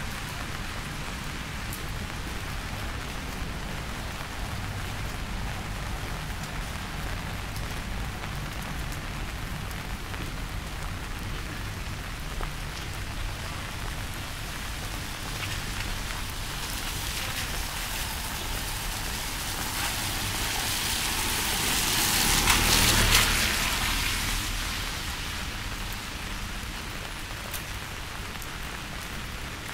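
Steady rain falling, an even hiss throughout. About two-thirds of the way through, a louder hiss with a low rumble swells up and dies away again.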